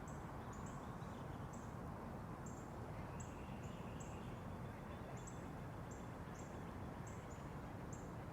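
A small bird giving short, high, sharp chip notes over and over at an uneven pace, about two a second, over a steady low background noise.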